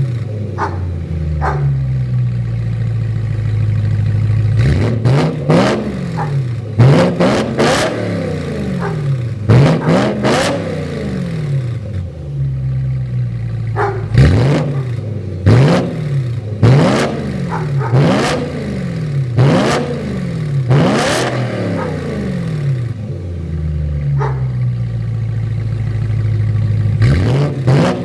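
BMW M3 engine through a Remus sport exhaust with X-pipe, free-revved while parked. It idles, then is blipped again and again, about once a second, each rev rising and falling quickly with sharp cracks on the way down. It settles back to idle and revs once more near the end.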